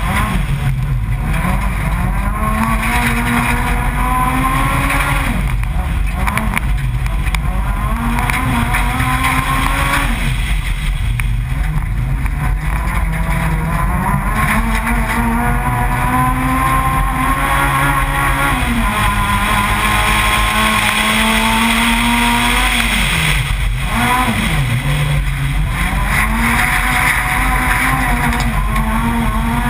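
Honda Civic Type-R's four-cylinder engine, heard from inside the car, driven hard on a gravel track. It revs up again and again, with sharp drops in pitch every few seconds at gear changes and lifts.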